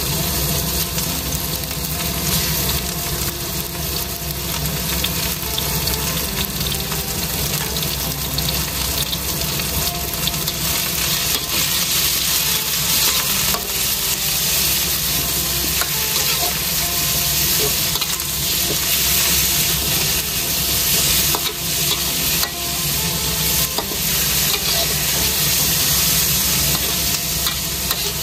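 Chicken pieces and sliced onion sizzling steadily in hot oil in a large wok, stirred with a metal spatula that scrapes and taps against the pan.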